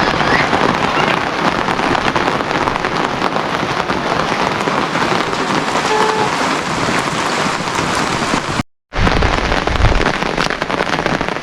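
Steady rain falling, a dense hiss of many fine drop patters, cut by a moment of silence about nine seconds in.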